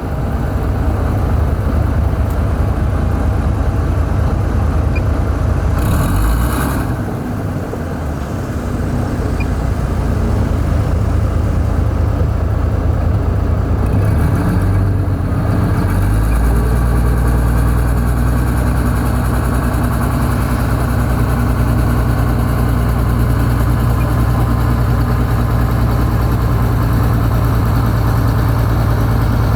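Heavy diesel engine of construction machinery running, with a brief hiss about six seconds in. From about sixteen seconds the engine settles into a steadier, deeper drone.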